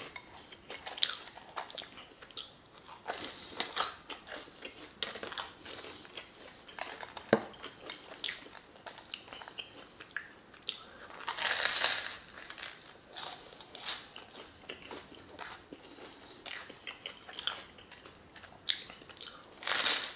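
Chewing and biting with many small wet mouth clicks as bread soaked in beef stew broth is eaten. Near the end, a short slurp from the bowl.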